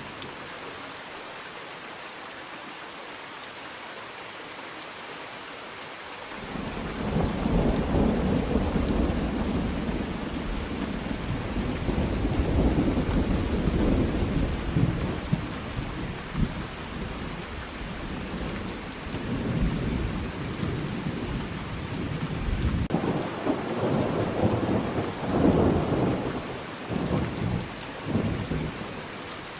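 Thunderstorm: steady rain falling, with thunder that rolls in about six seconds in and rumbles on, swelling and easing in waves, until the end.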